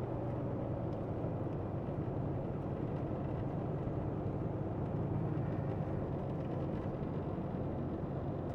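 Semi truck's diesel engine running steadily, heard from inside the cab, a constant low drone with road noise.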